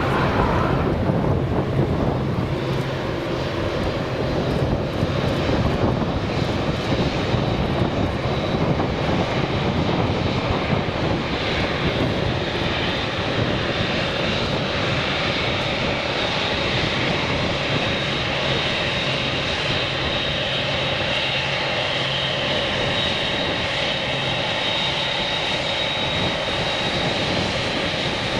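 Boeing 747-8F freighter's four GEnx turbofan engines running: a steady jet roar that drops in pitch right at the start, then holds, with a high fan whine growing stronger over the second half.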